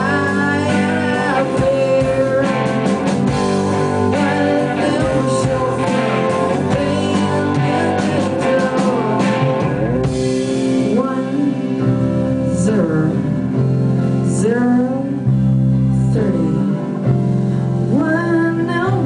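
A small band playing live: electric guitar over a steady bass line and drums, with sung vocals that slide in pitch.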